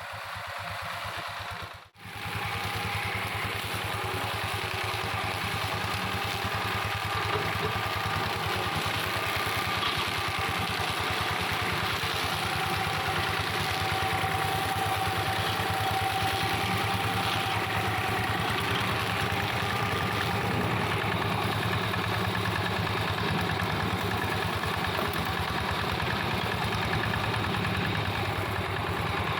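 Engine of a two-wheel hand tractor modified as a grass and scrub mower, running steadily at an even speed. The sound cuts out for a moment about two seconds in.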